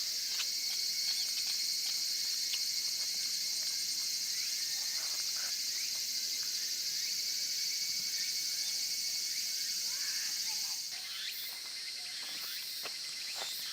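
Steady high-pitched insect chorus, with scattered faint clicks underneath; the chorus drops away near the end.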